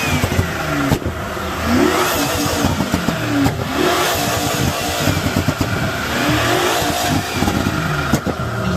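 Car engine with very loud exhaust pipes revving up and down over and over, with many sharp crackles and pops.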